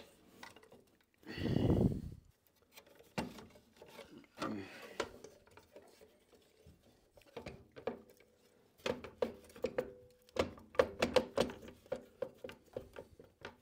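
Clicks, knocks and rubbing of hand tools and metal parts being worked on an old Craftsman radial arm saw, with a quicker run of clicks in the second half.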